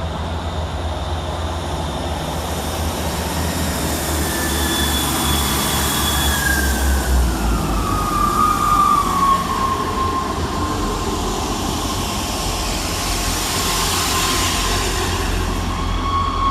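Diesel multiple unit train moving through the platform, a steady heavy rumble with a high squealing tone that slides down in pitch a few seconds in and then holds steady; the sound swells about halfway through.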